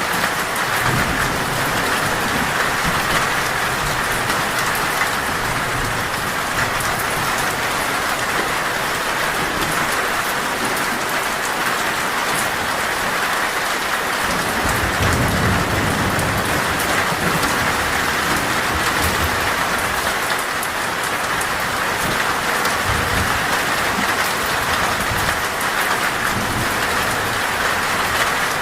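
Torrential rain falling steadily on a metal roof, with low rumbles of thunder a few times, the strongest about halfway through.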